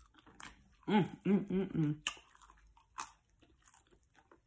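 A person chewing a fried chicken tender with mouth smacks and clicks, and a short wordless hum of enjoyment in four quick pieces about a second in.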